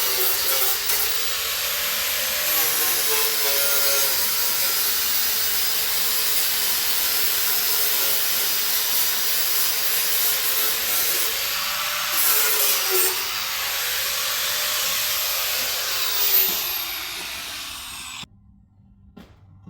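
Angle grinder cutting rusted steel out of a car body, a continuous gritty hiss over a motor whine that sags and recovers as the disc bites under load. It cuts off suddenly near the end.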